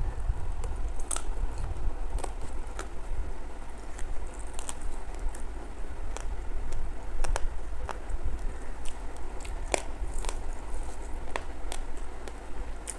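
Close-up eating sounds: a person chewing food, with scattered short wet clicks and smacks from the mouth. Underneath runs a steady low rumble.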